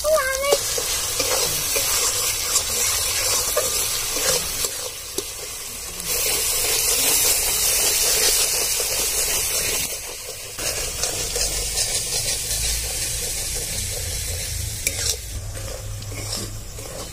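Onion and spice masala frying in hot oil in a metal pan, sizzling while a metal spatula stirs and scrapes through it. The sizzle swells for a few seconds in the middle, then drops back.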